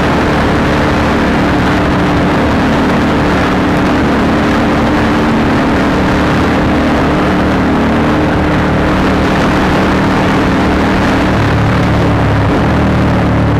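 Honda CBR150R's single-cylinder engine running through an aftermarket Akrapovic exhaust at steady revs, under a steady rush of wind noise. About eleven seconds in, the engine note drops to a lower pitch.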